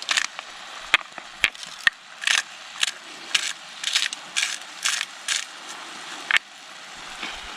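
Salt and pepper grinder being twisted, grinding in short rhythmic strokes about two to three a second. The strokes stop a little after six seconds in.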